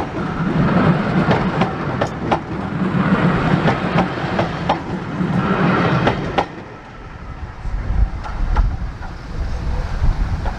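Railway passenger coaches rolling past close by, their wheels clicking over rail joints in a fast, uneven run. About six seconds in, the sound drops away as the last coach passes, leaving a low rumble.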